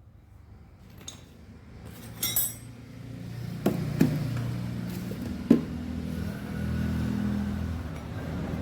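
A small scooter engine running steadily at low speed, its hum building up and getting louder near the end, with a few sharp metallic clinks and knocks in the first half.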